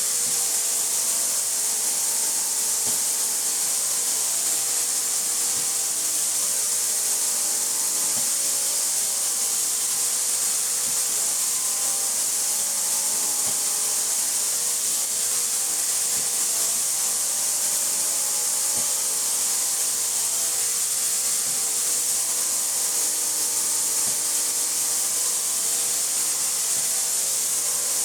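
Ultra 3800 FLT industrial ultrasonic parts cleaner running its ultrasonic and agitation cleaning cycle with the lid closed. It gives a steady high hiss with a hum of several steady tones beneath it, unchanging throughout.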